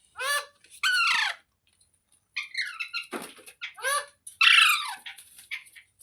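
Pet green parrot giving a series of about five sharp, high-pitched screeching calls, several of them falling in pitch, with softer chattering between them. The loudest call comes near the end.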